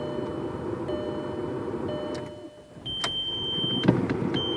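2001 Volkswagen Jetta's dashboard warning chime beeping in repeated tones of about a second each, with the warning lights lit, which the owner puts down to electrical gremlins. Under it a steady low running noise drops out briefly about halfway through and comes back with a couple of clicks.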